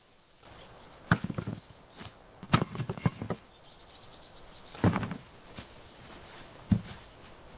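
A few knocks and clattering thumps, in four separate bursts, over a faint outdoor background.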